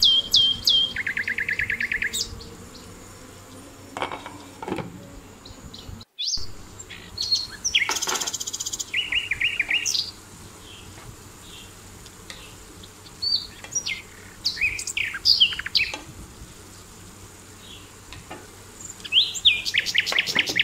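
Small songbirds calling: runs of quick, sharp, high chirps and short rapid trills, with several birds at once in places.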